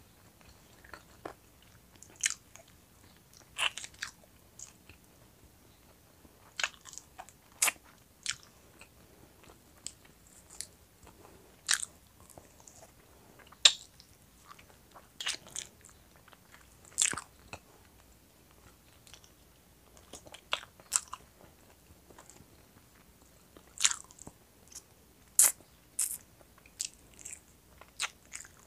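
Close-miked chewing and biting of roast chicken wings, with irregular sharp, crisp crunches every second or two.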